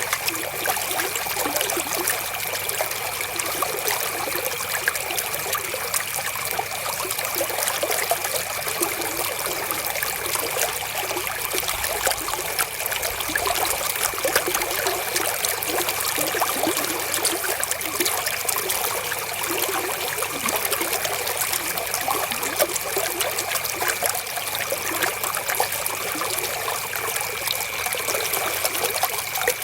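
River water flowing and trickling steadily over stones, with a faint steady high tone running underneath.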